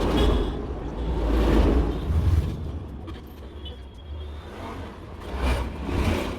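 Road traffic: vehicles passing with a low rumble, swelling and fading several times.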